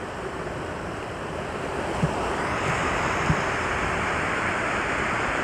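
Wind gusting, a steady rushing that swells about two seconds in and then holds.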